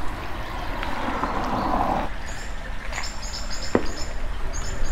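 Small birds chirping in quick, high-pitched runs from about two seconds in, after a rushing noise that cuts off suddenly. One sharp click near the end.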